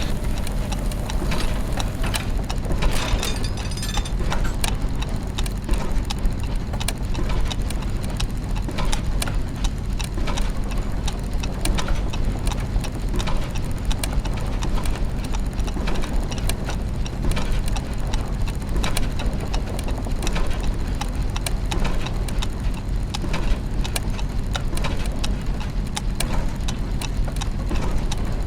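Clockwork mechanisms and gears running: dense, irregular ticking and clacking over a steady low mechanical hum.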